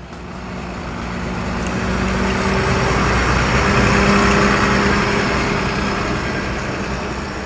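Large truck driving past: engine hum and road noise swelling to a peak about halfway, then fading away.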